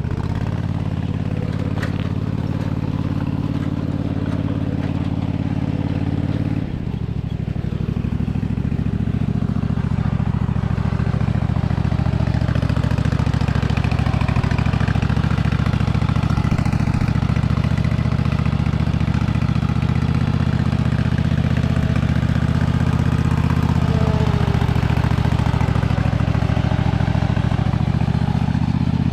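Lawnmower engine running steadily. About seven seconds in, its note dips briefly, then picks up and runs a little louder.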